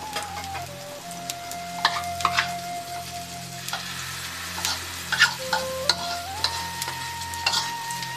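Hot oil sizzling and crackling as fritters fry, with irregular sharp pops. A slow background melody of long held notes plays over it.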